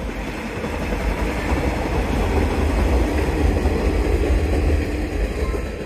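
Sanriku Railway diesel railcar passing over a concrete railway bridge: a steady rumble of engine and wheels that swells to its loudest about three to four seconds in, then fades.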